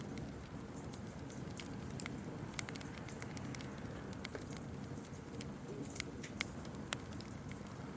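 Campfire crackling: a steady low rumble of burning wood with scattered sharp pops and snaps, the loudest a little after six seconds in.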